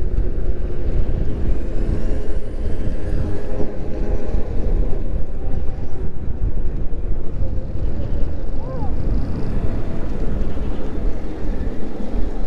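Wind rushing over the microphone of a moving electric moped: a loud, steady, rough rumble. A brief high squeak comes about eight and a half seconds in.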